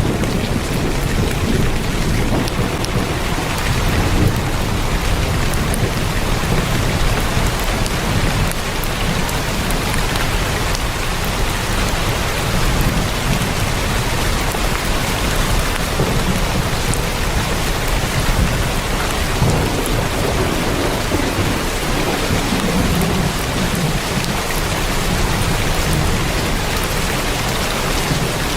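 Heavy rain falling steadily on a tin roof, a dense even patter, with a low rumble swelling and fading underneath.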